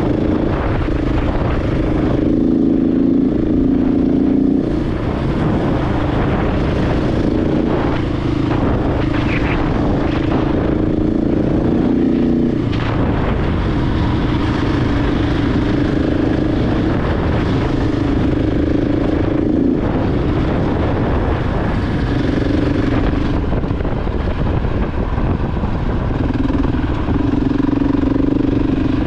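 KTM 690 Enduro R's single-cylinder engine running steadily under way, its pitch stepping up and down a little several times, over a constant rushing noise.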